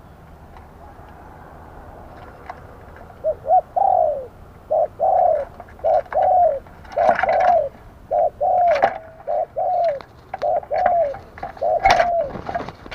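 Spotted dove cooing: a run of short coos, each dropping in pitch, beginning about three seconds in and continuing to near the end, with a few sharp clicks mixed in.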